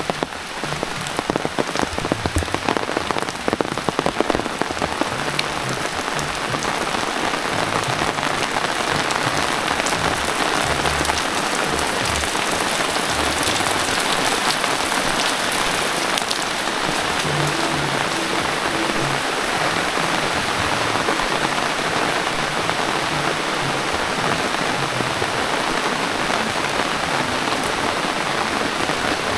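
Steady heavy rain, a dense hiss of drops on the ground and surroundings, with close drops ticking sharply during the first few seconds before it evens out.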